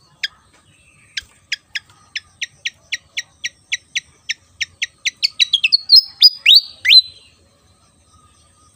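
A sikatan kipas fantail singing. It gives one sharp chirp, then a quick run of about twenty short falling notes at roughly four a second that speeds up, and ends with a few louder slurred whistles about six to seven seconds in.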